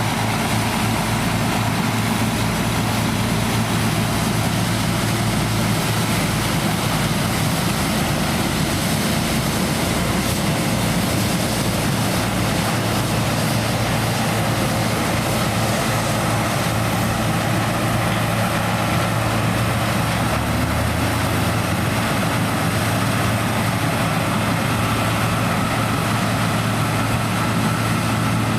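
Heavy diesel farm machinery running steadily during corn harvest: a constant low engine drone under an even mechanical hiss, with no let-up.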